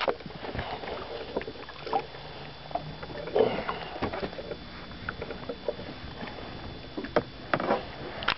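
Water splashing and lapping at the side of a small fishing boat, with scattered clicks and knocks from the boat and tackle, as a hooked fish is brought in to the boat; a louder splash comes about three and a half seconds in.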